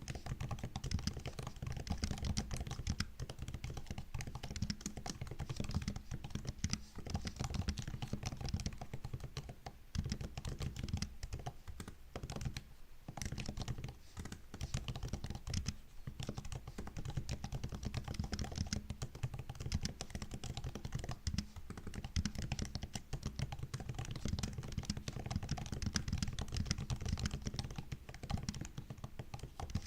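Continuous typing on a MacBook keyboard: a dense, steady stream of key clicks and taps, with a brief pause a little under halfway through.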